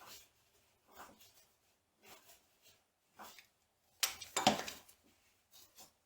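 Hand work on metal machine parts: short scrapes and rubs about once a second, with a louder burst of several sharp clinks and clanks about four seconds in.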